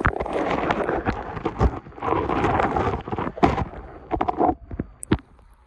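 A large dog splashing through shallow lake water: irregular surges of splashing with sharp knocks, dying away near the end.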